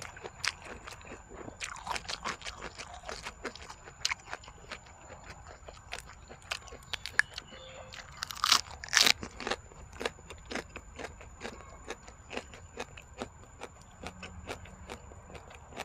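Close-miked chewing and crunching of spicy jellyfish salad and raw leafy greens, a steady run of wet mouth clicks. The loudest crunches come twice, about eight and nine seconds in, as a raw green leaf is bitten.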